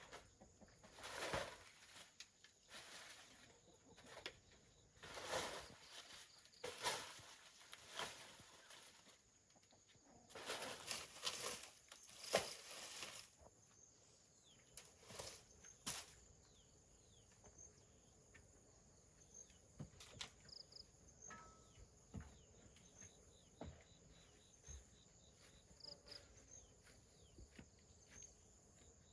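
Irregular rustling and scuffing for about the first dozen seconds, then quiet with faint, short, high chirps over a faint steady high hum.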